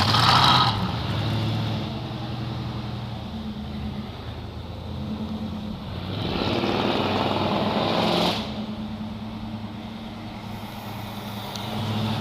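Classic car engine running with a steady low rumble, loudly revving up at the start and again from about six to eight seconds in, where it cuts off sharply.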